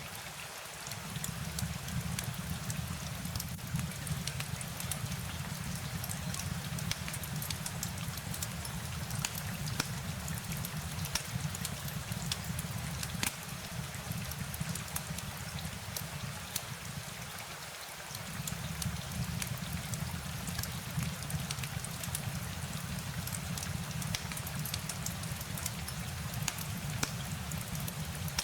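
Steady rain falling, with many sharp individual drop ticks over an even hiss and a low rumble underneath. The low rumble briefly drops out about a second in and again near the middle.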